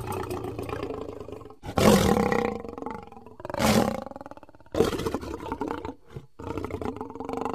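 Lion roaring: several roars in a row, the loudest about two seconds in and again near four seconds.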